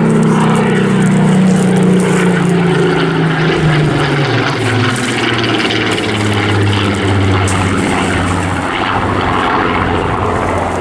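Spitfire's Rolls-Royce piston engine running as the aircraft flies past, loud and steady. About four seconds in, the engine note falls in pitch as the aircraft passes and moves away, then holds at the lower pitch.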